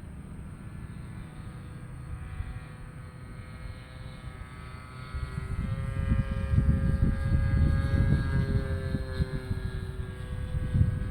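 Radio-controlled Kadet LT trainer plane flying past, its model engine running steadily. About five seconds in it grows louder, and its pitch rises slightly and then falls as it goes by.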